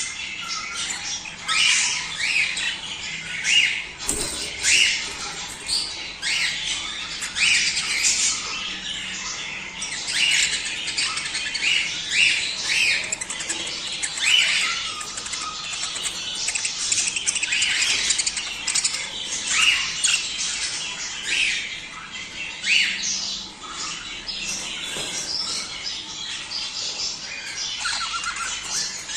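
A flock of budgerigars chattering continuously, many overlapping chirps and short sharp calls with no pause.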